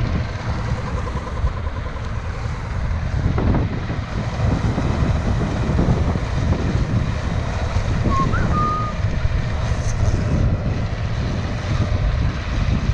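Strong wind buffeting the microphone in a continuous low rumble, with farm machinery running underneath.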